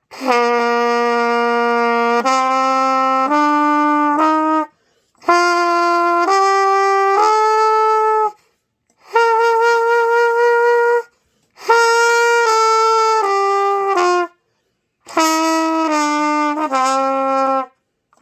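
Trumpet played by a beginner practising scale steps as held long tones: five phrases of steady notes with short breaks between, the notes climbing step by step in the first phrases, one long held note around the middle, then stepping back down.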